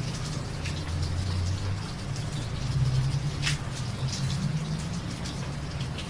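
Steady rain falling, with individual drops ticking sharply now and then, one more distinct about halfway through, over a low steady hum.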